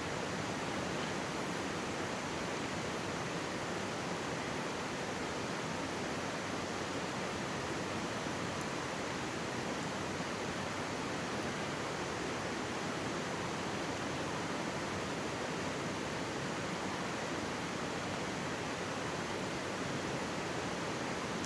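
Mountain stream running over rocks close by: a steady, even rush of water with no change in level.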